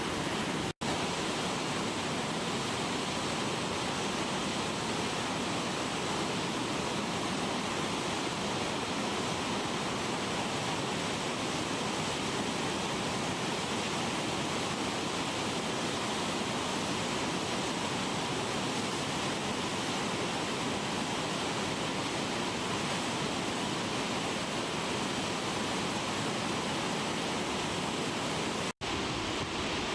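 Naena Falls, a large waterfall, rushing in a steady, dense noise of falling water. Two very brief cut-outs break it, about a second in and near the end.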